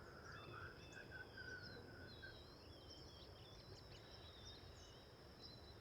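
Faint birdsong: several birds chirping at once, with a run of short repeated lower notes in the first two seconds, over a steady high-pitched hum.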